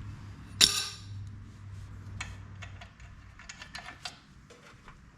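Hand-tool work on metal while bolts are undone: one sharp metallic clank about half a second in, then a run of light, irregular clicks like a ratchet wrench working.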